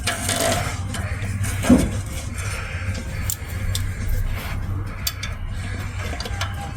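Light metallic clinks and taps of hand tools and a steel muffler clamp being fitted onto an exhaust pipe, with one louder knock about two seconds in, over a steady low hum.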